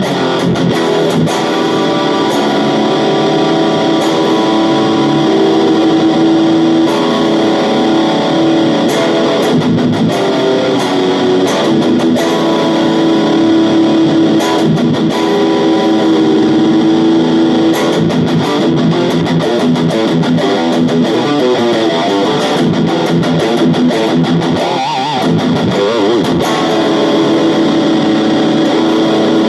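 AIERSI ST11 HSS electric guitar being played: sustained notes and chords, with bent and vibrato notes in the later part.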